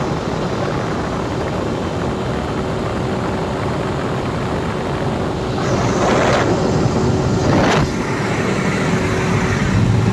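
Cummins diesel generator engine running steadily under a loud, even noise. From about six seconds in a louder hissing rush swells up, then cuts off sharply just before eight seconds.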